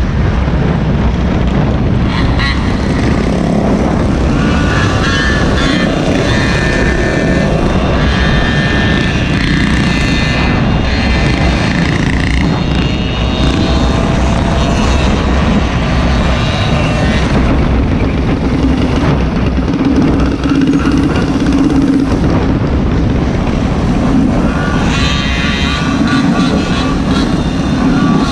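Small petrol engines of Gopeds and mini bikes running on the move, a heavy low rumble under engine notes that climb and fall as the throttle opens and eases off.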